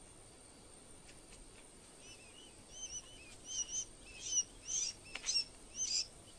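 Sandgrouse at the nest giving short, high chirps. They start about two seconds in, often in quick pairs, and grow louder and more frequent toward the end.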